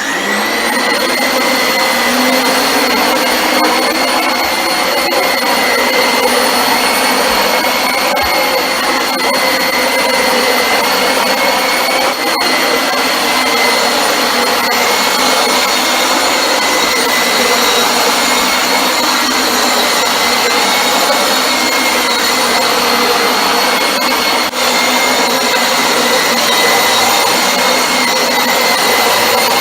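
Dyson DC25 Animal upright vacuum cleaner switched on and running steadily while vacuuming carpet: a loud rushing motor noise with a steady high whine, freshly serviced and running well.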